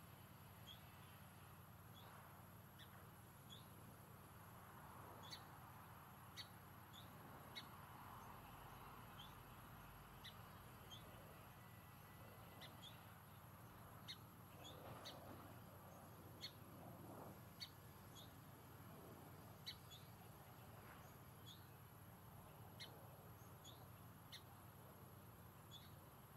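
Faint outdoor garden ambience with a small bird's short, high chirps coming irregularly, about one a second.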